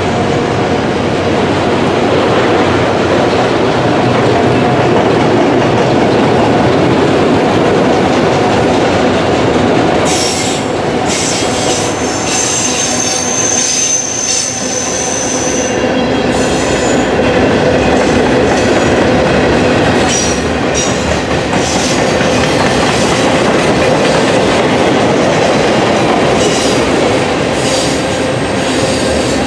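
Freight train's cars rolling past: a loud, steady rumble and clatter of steel wheels on the rails. A thin, high wheel squeal rings out for a few seconds from about twelve seconds in.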